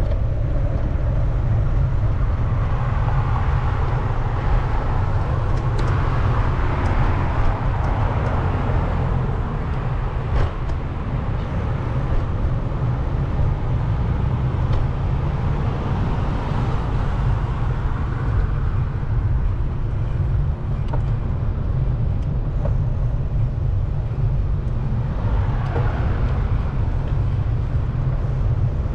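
Wind rumbling on the microphone of a moving bicycle, with road traffic around. A few passing cars swell and fade over the constant rumble.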